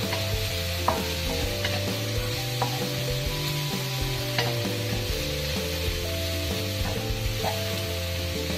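Chinese sausage slices and chopped aromatics sizzling in a stainless steel wok while a wooden spatula stirs them. Scattered knocks and scrapes come from the spatula against the metal.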